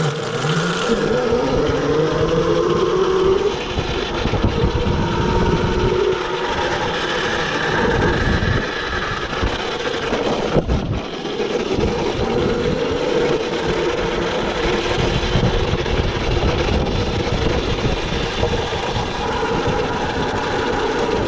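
Yozma IN10 electric dirt bike's motor whining as it rides, rising in pitch as it pulls away over the first few seconds, over a steady rumble of wind and tyre noise.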